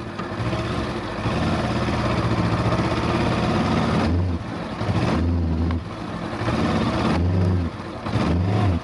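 Honda CB500X's parallel-twin engine revving up and easing off several times, falling back to a lower, steadier note in between, as the motorcycle works under load through soft sand.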